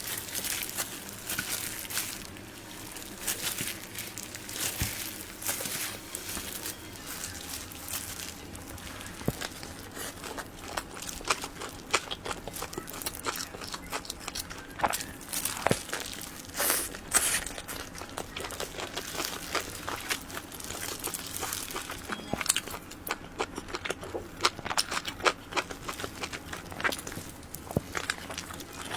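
Close-miked eating of soft cream-filled cake rolls: irregular wet mouth clicks and chewing sounds, a few louder clicks around the middle.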